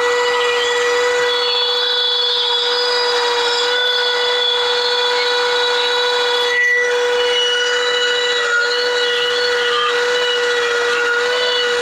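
Air-powered rotary carving tool running with a steady high whine, its bit grinding into wood with a rougher, shifting rasp over the top.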